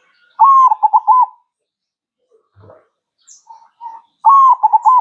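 Zebra dove (perkutut) cooing: two loud phrases about four seconds apart, each a first drawn-out note followed by three or four quick clipped coos.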